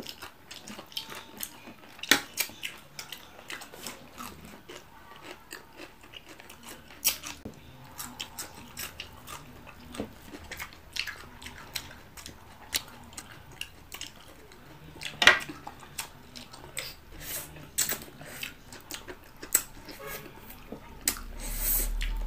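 Close-miked mukbang eating: irregular wet chewing, lip smacks and crunching as two people bite into crispy fried tilapia and raw vegetables eaten by hand. A brief low rumble comes near the end.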